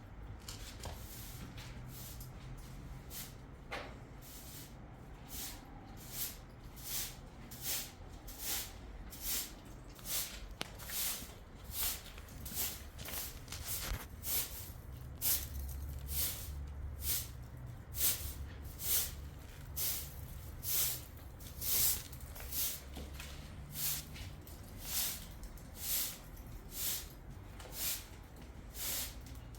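Repeated swishing strokes, about one a second in a steady rhythm, growing louder after the first few seconds, over a low steady hum.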